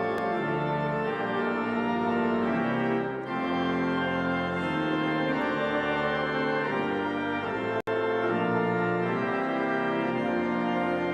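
Organ and brass quintet playing sustained chords together, the harmony moving every second or so. The sound cuts out for an instant near the end.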